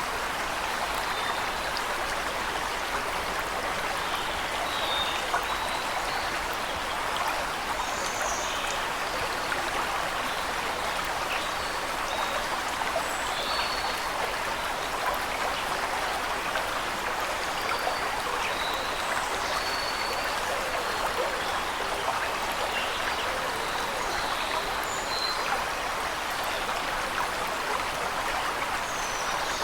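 Steady rush and splash of a waterfall, even and unbroken, with occasional brief, faint bird chirps sounding high above the water.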